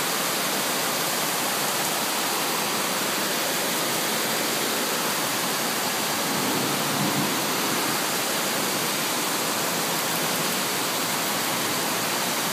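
Floodwater rushing: a loud, steady wash of water noise that does not change.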